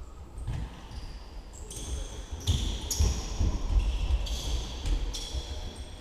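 Football match play on the pitch: the ball thudding as it is kicked, with players' calls.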